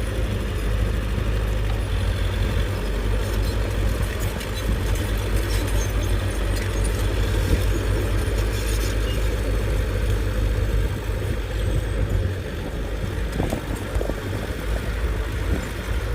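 Heavy diesel engine of earthmoving machinery running steadily with a deep low rumble, easing slightly about twelve seconds in.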